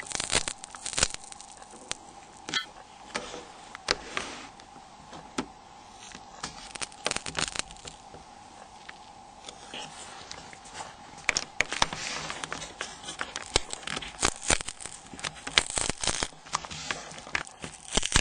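A prying tool levering a glued plastic display window off a phone's flip cover: irregular crackling and sharp plastic clicks as the adhesive gives way, busiest in the second half, over a faint steady hum.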